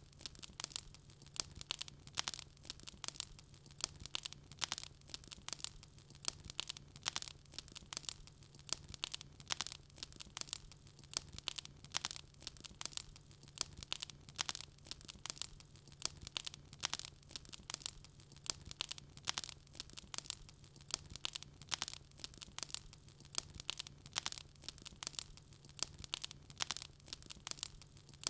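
Wood fire crackling in a fireplace: dense, irregular sharp pops and snaps, several a second, over a faint steady low hum.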